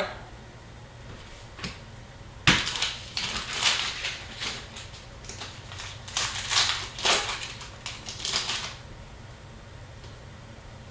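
Hockey card packs being handled and opened, their wrappers crinkling and rustling and the cards shuffling. The sound is a string of irregular crackly bursts that starts sharply about two and a half seconds in and stops before nine seconds.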